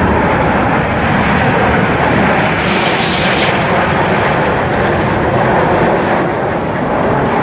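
Aircraft flying over, with loud, steady engine noise that swells slightly about three seconds in.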